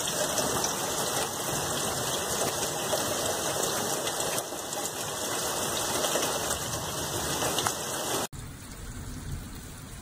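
Steady heavy rain, a dense even hiss. About eight seconds in it cuts abruptly to quieter rain.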